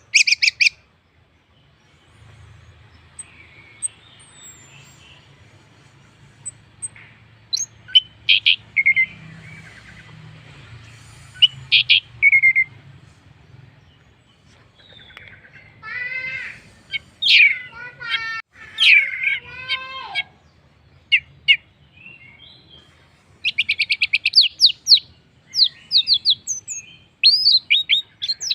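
Orange-headed thrush singing: varied phrases of sweeping whistles, rapid trills and quick chattering notes, separated by short pauses, with a lower, harsher run of falling notes about two-thirds of the way through. A faint low hum sits underneath during the first half.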